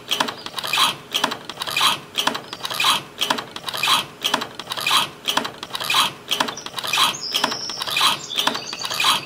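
Miniature hand pump being worked by hand: the handle rubs and rasps in a steady rhythm of about two strokes a second, each stroke spurting water that splashes into a small pool.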